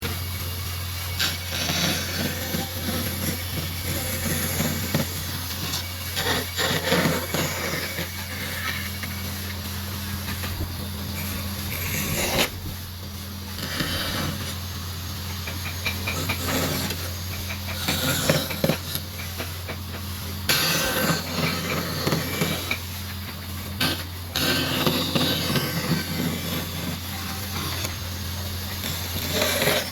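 Rough scraping and rasping of wood being worked, in irregular strokes, over a steady low hum.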